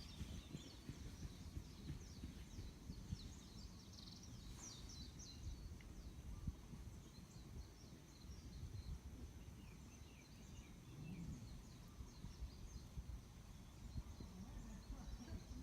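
Faint outdoor background noise with a low rumble throughout, and quick, high-pitched chirps repeated through the first five seconds, thinning out afterwards.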